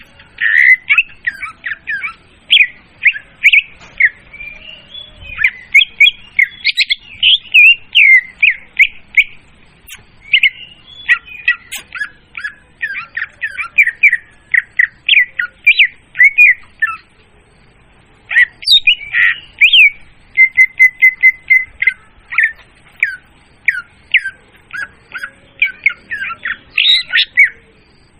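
Leafbird (murai daun) song played loud as a hunting lure call: fast, varied strings of sharp chirps and short whistles, broken by brief pauses about ten and eighteen seconds in, with a run of quick, evenly repeated notes just after the second pause.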